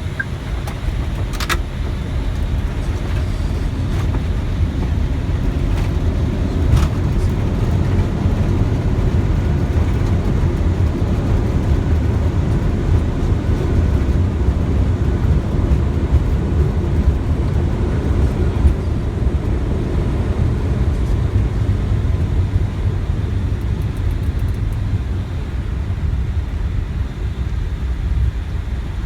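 Airbus A320 rolling out on the runway just after touchdown, heard from the flight deck: a steady, loud low rumble of wheels and engines that eases slightly toward the end as the aircraft slows.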